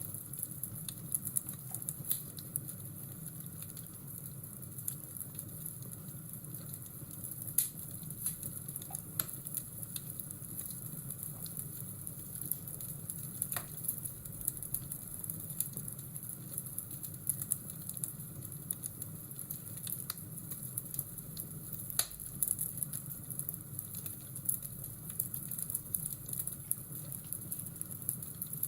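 Fireplace crackling: irregular sharp pops and snaps over a steady low rushing bed.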